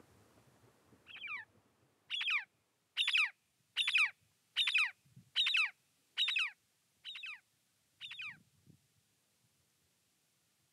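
A bird calling a run of nine short calls about a second apart, each sliding quickly down in pitch. The first call is faint, the middle ones are loudest and the last two fade.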